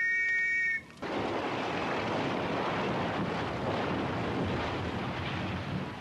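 A steam whistle gives a short two-note blast that stops under a second in. Then comes a sudden, continuous rushing crash of a brick chimney collapsing, which dies down a little near the end.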